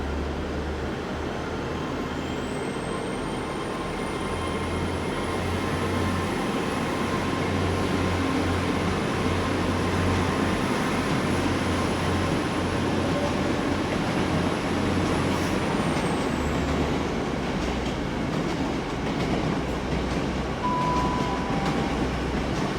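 Great Western Railway intercity train pulling out of the station, with engine rumble and a high whine that rises, holds steady, then falls away.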